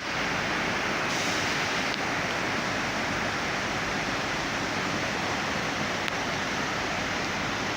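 Floodwater rushing in a steady, loud roar of torrent noise with no break.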